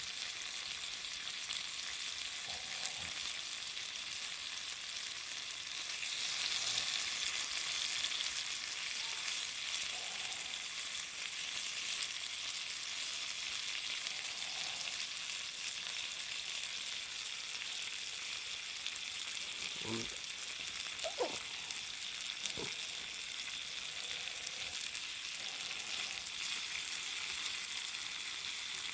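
Garlic shrimp, broccoli and potato sizzling in a small cast-iron skillet and being stirred with chopsticks. The sizzle swells briefly about six seconds in, and a few light knocks come about twenty seconds in.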